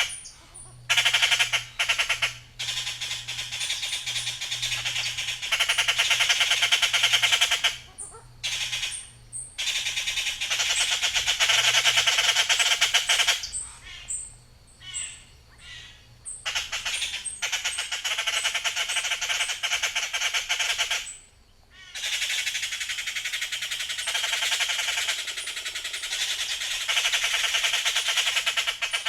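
Birds squawking in long, harsh, rapidly pulsed chattering bouts of several seconds each, broken by short pauses, with brief high thin chirps between them.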